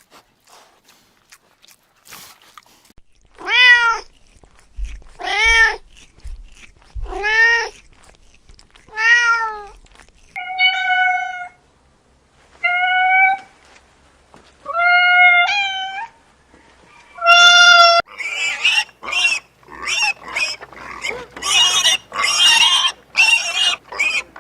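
Domestic cat meowing repeatedly: four drawn-out meows about two seconds apart, then four shorter, higher, flatter meows. Near the end a rapid run of short, harsh animal squeals takes over.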